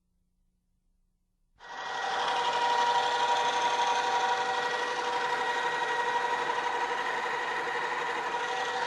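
A drilling machine's electric motor and spindle switch on about a second and a half in, come up to speed within a second, and run steadily with a whine of several steady tones over a hiss.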